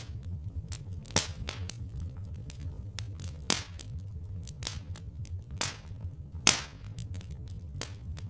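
Wood fire crackling, with irregular small clicks and a few louder pops, over a steady low rumble.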